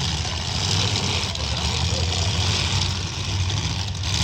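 Engines of demolition derby trucks running, a steady low rumble without clear breaks.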